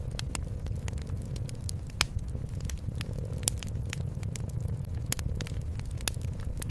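Wood fire crackling, with irregular sharp pops a few times a second, the loudest about two seconds in and again near three and a half seconds, over a steady low rumble.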